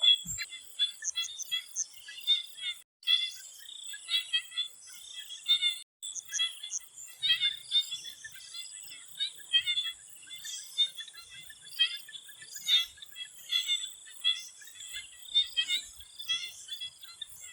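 Swamp chorus of many small frogs calling in short, quick chirps over one another, with a steady high-pitched insect drone underneath.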